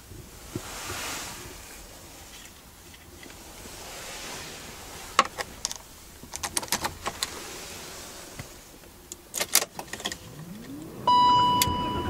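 Keys jangling and clicking into the ignition of a 2002 BMW 520i E39, then near the end its inline-six cranks and catches with a rising whir, a smooth start. A loud steady high tone sounds as it fires.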